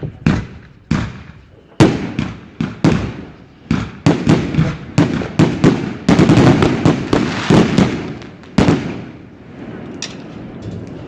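A rapid series of sharp fireworks bangs, each trailing off in echo. They come closest together in the middle, with a last big bang about eight and a half seconds in, after which the noise dies away.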